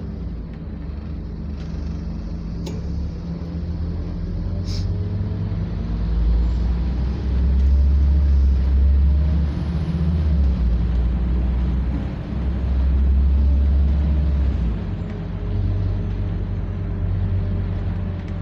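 Scania double-decker bus engine pulling the bus along, heard from on board, its pitch gliding up and down with the revs. The deep drone swells loudest from about six seconds in, then eases near the end. Two sharp clicks come early on.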